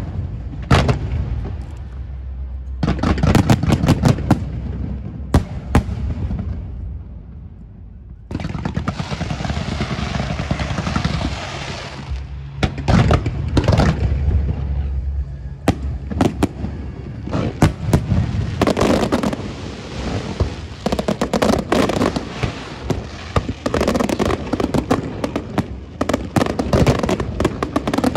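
Fireworks display: aerial shells bursting in quick succession with many sharp bangs. The bangs thin out briefly about seven seconds in, then come as a dense, rapid barrage.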